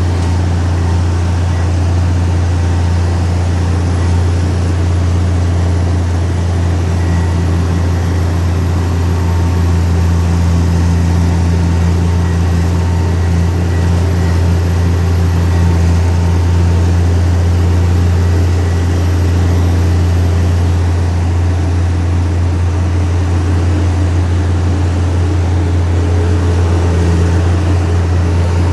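Heavy earthmoving machine's diesel engine running steadily, a deep, even drone that barely changes in pitch or loudness.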